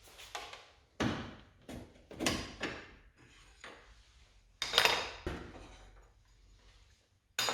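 Hard plastic clicks and knocks, several separate ones with the loudest a little before the 5-second mark, as a Volvo XC70 xenon headlamp unit is pulled free of its mounting.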